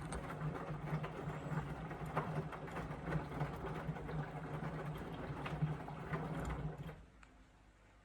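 Indesit washing machine's drain pump running with a steady hum, then cutting out about seven seconds in as draining finishes.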